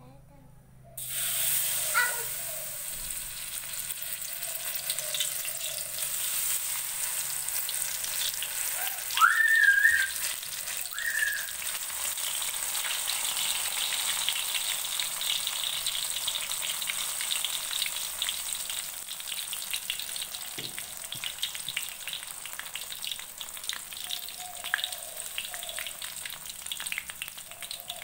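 Battered enoki mushrooms go into hot oil in a wok about a second in, setting off a loud, steady sizzle with crackling as they deep-fry. A brief high-pitched sound cuts in about nine seconds in.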